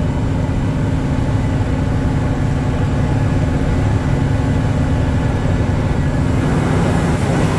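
Water truck's engine running steadily as the truck drives along, heard from inside the cab as an even low drone.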